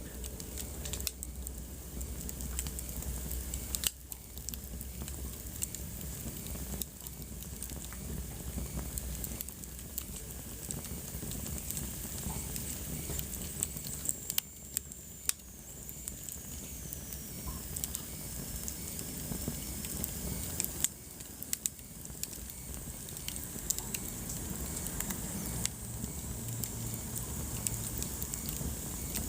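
Wood fire crackling in a fireplace: irregular sharp pops and snaps over a steady hiss, with a faint high whistle sliding slowly downward about halfway through.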